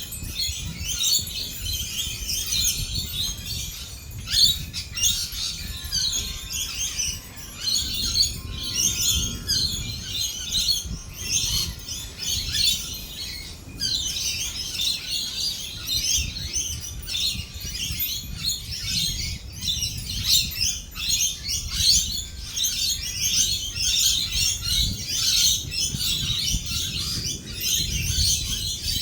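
A flock of lorikeets chattering and screeching without pause, with a steady low rumble underneath.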